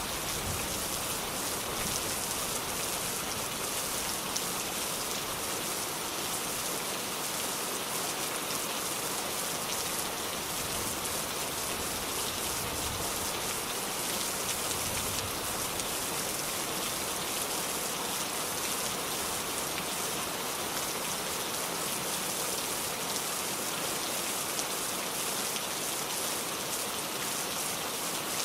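Steady rain falling and pattering on a surface, a dense, even hiss of drops.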